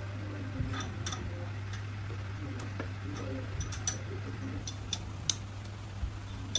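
Light, irregular clicks and taps of tools and small metal parts being handled during engine repair work, over a steady low hum.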